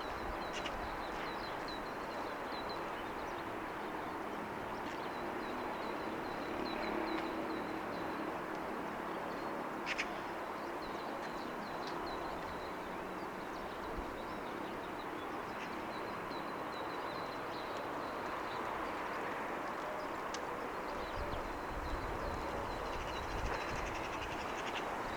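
Early-morning city ambience heard from high above: a steady distant hum with small birds chirping in quick little runs throughout. A single sharp click comes about ten seconds in.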